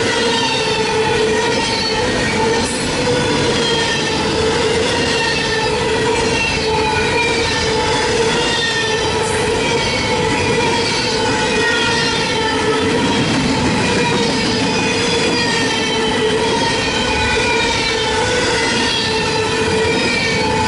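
Freight train cars rolling past with steel wheels squealing against the rail: a steady ringing squeal, with higher squeals that slide down in pitch again and again as each car goes by.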